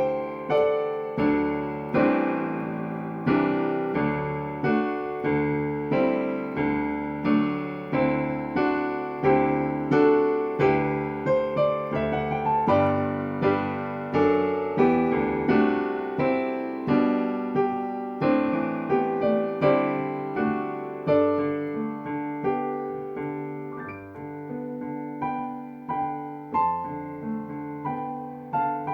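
Solo piano playing a slow prelude of chords and melody, each note struck and fading.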